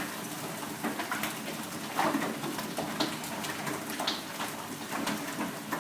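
Large hailstones pelting down: a steady hiss of falling hail scattered with many irregular sharp clicks and knocks as stones strike hard surfaces, a few louder hits standing out.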